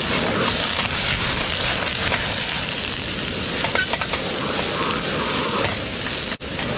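Food sizzling and frying in a pan, a steady hiss with a few small ticks, breaking off abruptly for a moment near the end.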